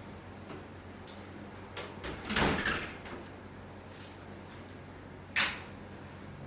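Household handling sounds: a short rubbing or sliding noise about two seconds in, a faint click, then a sharp knock near the end.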